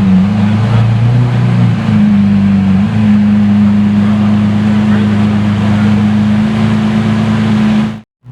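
Sports car engine running loud, its pitch stepping up twice in the first three seconds and then holding steady. It cuts out suddenly near the end.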